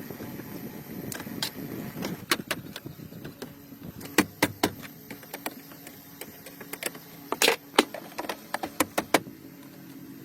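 A run of sharp, irregular clicks and knocks, the loudest about four seconds in and again about two-thirds of the way through, over a low wavering hum that fades after the first few seconds.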